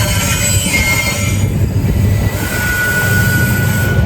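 Freight train cars rolling past with a steady low rumble. The steel wheels squeal on the rails: a brief high squeal about a second in, then a steady high-pitched squeal from a little past two seconds in to the end.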